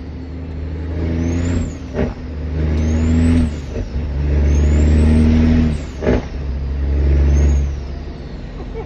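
Caterpillar 3406 diesel in a Kenworth W900 pulling up through the gears: the engine note climbs in four pulls, broken by quick gear shifts about 2, 4 and 6 seconds in. A high whistle rises with each pull. The engine eases off near the end.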